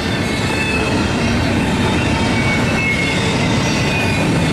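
CSX intermodal freight train rolling past: a steady rumble of wheels on rail, with faint high wheel squeal coming and going.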